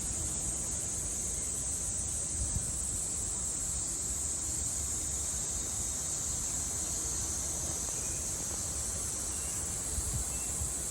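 Japanese summer cicadas droning in a steady, unbroken high-pitched buzz.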